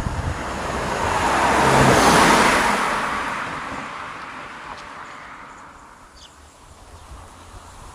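A car driving past, its noise swelling to a peak about two seconds in and fading away over the next few seconds.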